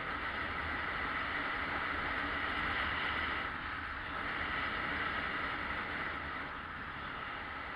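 Yamaha XJ600S Diversion motorcycle on the move: steady engine and road noise under wind rushing over the microphone, easing off slightly about halfway through.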